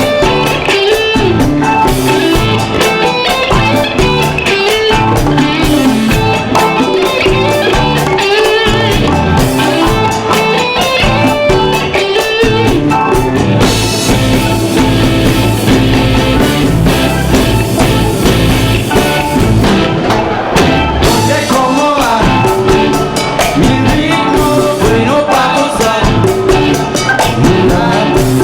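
Live band playing blues-rock: electric guitar over drum kit and bass, with a Hammond organ in the mix.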